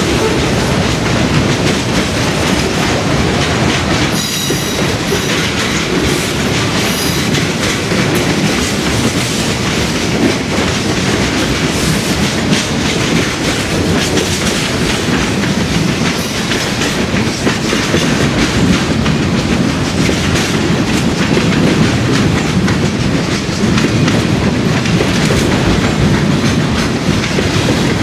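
Freight train rolling by, its railcar wheels clicking steadily over the rail joints, with a brief high wheel squeal about four seconds in.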